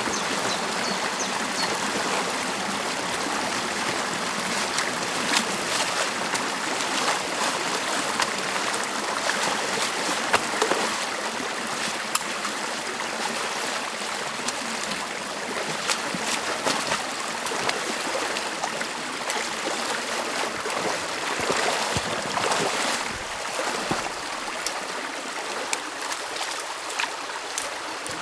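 Stream water rushing and trickling steadily through a beaver dam being opened by hand, with scattered short clicks and splashes.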